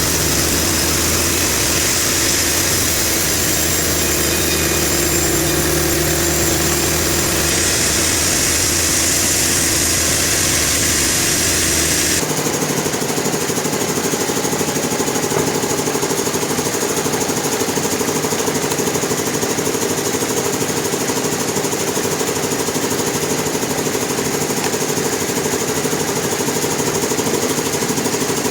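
Engine-driven sawmill machinery running steadily. About twelve seconds in the sound changes abruptly to a fast, even rattle.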